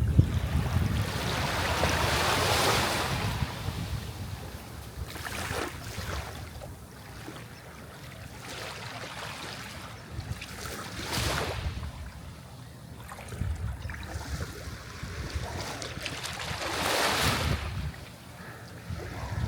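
Sea waves washing onto the shore, the surf swelling and ebbing in rushes, loudest near the start and again near the end, with smaller surges in between over a steady low rumble.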